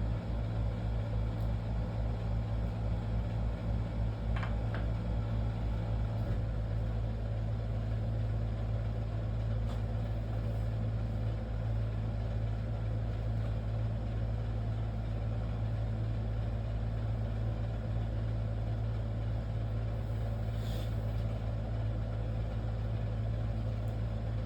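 Steady low mechanical hum of a running motor or machine, with a throbbing low part that evens out about six seconds in and a few faint clicks.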